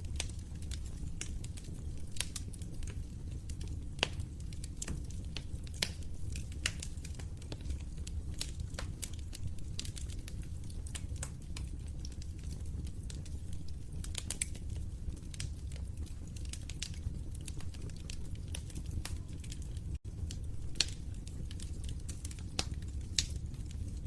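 Wood fire crackling: irregular sharp pops and snaps over a steady low rumble of burning. The sound drops out for an instant about twenty seconds in.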